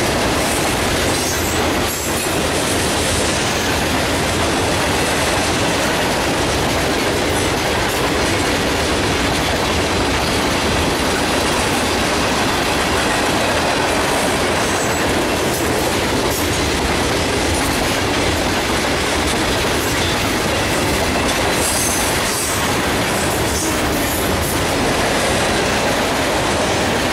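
Freight train cars (tank cars, covered hoppers and autoracks) rolling past close by: a steady, loud rumble and clickety-clack of steel wheels over the rails, with brief high wheel squeal a couple of times.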